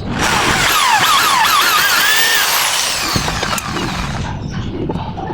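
A small power tool running loudly for about four seconds, its whine sliding down and back up in pitch several times as it runs.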